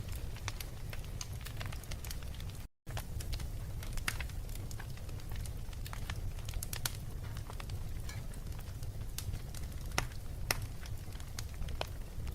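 Wood fire in a fireplace crackling, with irregular sharp pops over a steady low rumble; two louder pops come near the end. The sound cuts out completely for a split second a little under 3 seconds in.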